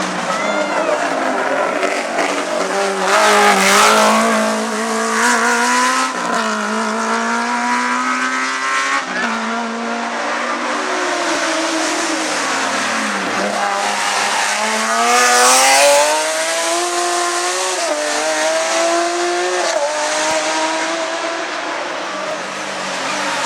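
Race car engine revving hard on a hillclimb, its pitch climbing and dropping repeatedly with gear changes and lifts off the throttle. It swells loudest twice, about four seconds in and again around sixteen seconds in.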